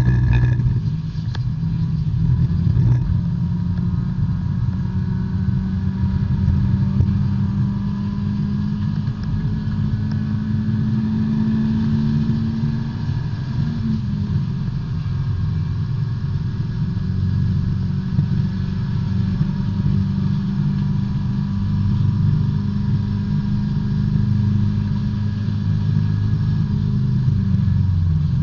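In-car sound of a B-Spec race car's small four-cylinder engine running hard on track, its pitch climbing slowly for about thirteen seconds, then dropping sharply and settling before changing again near the end.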